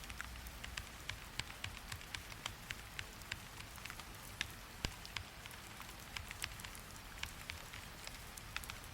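Steady rain with an irregular patter of sharp clicks, several a second.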